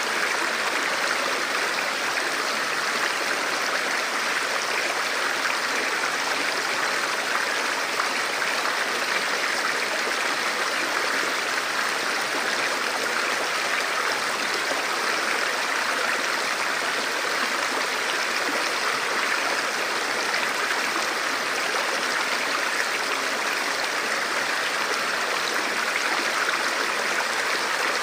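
Forest river flowing over rocks, a steady rushing of water with no break or change.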